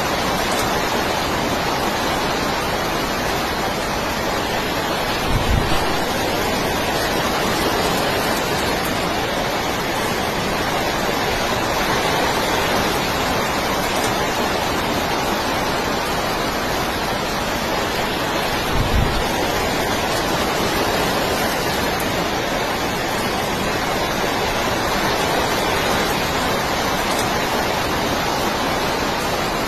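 Steady, loud rush of storm wind and heavy rain. Twice, about five and nineteen seconds in, a gust buffets the microphone with a brief low rumble.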